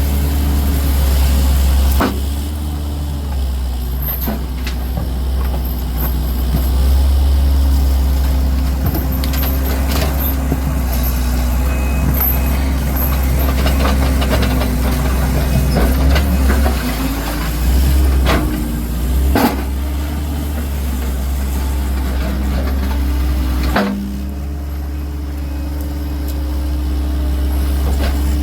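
Heavy truck engine running steadily, with several sharp knocks and clanks of debris or equipment.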